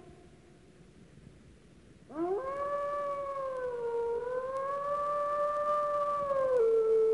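Red wolf howling: after about two seconds of quiet, one long howl rises into a held note, dips and climbs again, then drops to a lower steady note near the end.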